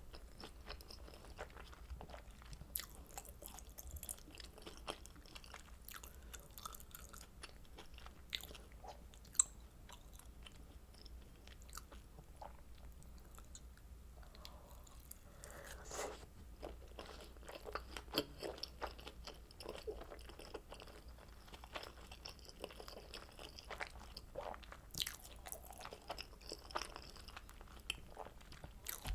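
Close-miked chewing of kimchi dumplings dipped in sauce: a steady run of wet mouth clicks and smacks, with an occasional sharper click or louder bite.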